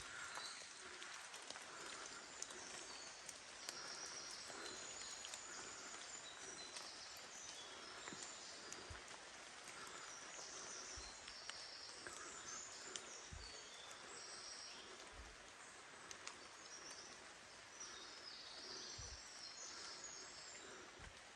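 Small birds singing: many short, high chirps and trills throughout, over a faint steady hiss, with a few soft low bumps.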